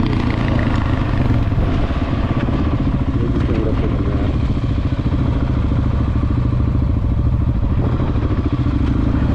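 Single-cylinder dual-sport motorcycle engine running steadily at an even speed, with no revving.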